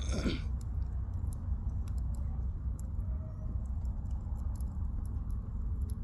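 Firewood burning in a campfire, crackling with small irregular pops and one louder hissing crackle right at the start, over a steady low rumble.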